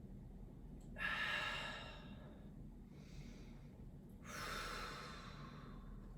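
A person breathing deeply and audibly through the nose or mouth while holding a yoga pose: two long breaths, about a second in and about four seconds in, with a fainter breath between.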